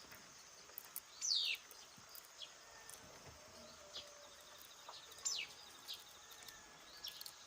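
Faint bird calls: quick high chirps sliding downward in pitch, two of them clearer than the rest, with short chirps in between over a faint steady hiss.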